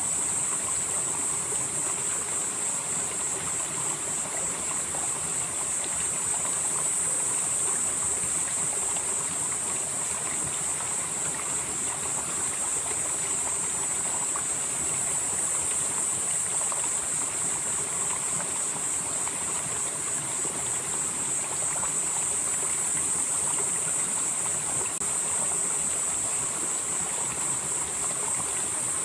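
Mountain valley stream flowing steadily over rocks, a continuous even rush of water. A steady high-pitched buzz runs along above the water sound.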